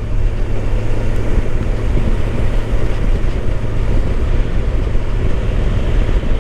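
Kawasaki Ninja 1000SX's inline-four engine running steadily while riding at speed, with wind rushing over the microphone.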